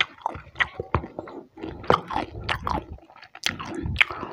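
Close-miked chewing of a mouthful of crispy fried chicken thigh, with irregular crunches, clicks and wet mouth sounds.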